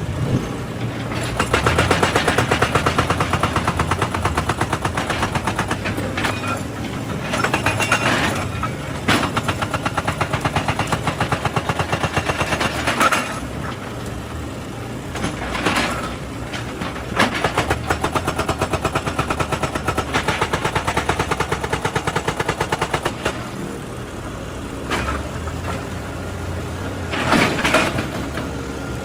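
Excavator diesel engine running under load while a hydraulic breaker hammers rock in rapid, even bursts lasting several seconds each, three long runs with shorter knocks between.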